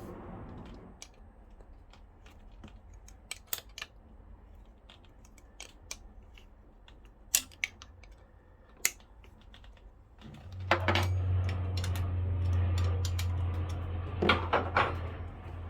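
Scattered sharp clicks and taps of hand tools working a nut on an engine's starter-motor mounting. About ten seconds in a steady low hum starts and runs for about five seconds, with a few more clicks over it.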